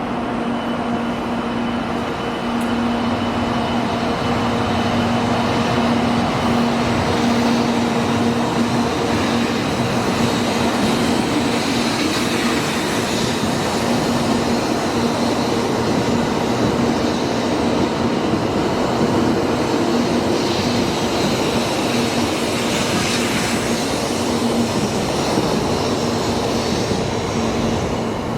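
Shinkansen train pulling out of the station: steady running noise of the cars on the rails with a steady motor hum, growing a little louder in the first few seconds.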